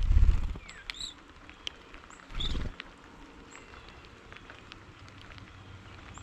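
Scattered short bird chirps and calls, high-pitched and a few at a time, over a quiet background. A loud low rumble on the microphone runs through the first half second and comes again briefly about two and a half seconds in.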